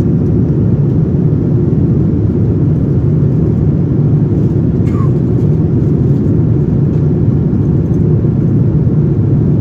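Steady low cabin roar inside a Boeing 787-9 airliner: engine and airflow noise holding an even level.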